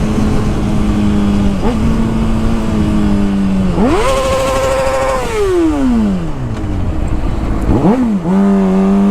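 Motorcycle engine running at a steady drone, then revving sharply up about four seconds in, holding high for a second or so and winding slowly back down. A quick blip of revs near the end drops back to the steady drone.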